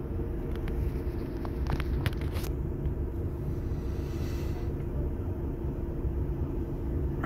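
Truck's diesel engine idling steadily, heard from inside the cab while stopped in a traffic jam, with a few short clicks about two seconds in.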